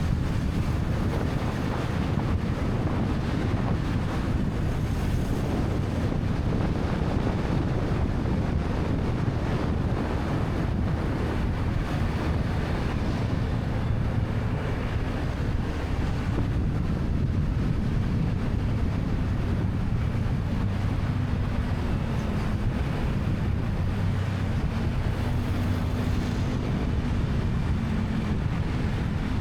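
Wind rushing over the microphone of a rider on a moving motorcycle taxi, a steady low rumble, with the motorcycle's engine and traffic underneath; a faint steady engine tone comes through in the last few seconds.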